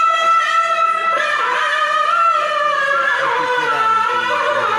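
A Qur'an reciter's voice in melodic tilawah, holding one long, very high note and then ornamenting it in winding melismatic runs.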